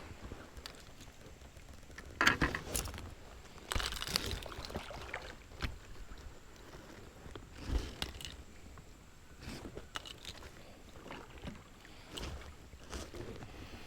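Quiet, irregular knocks and swishes from a kayak on the water, a few seconds apart.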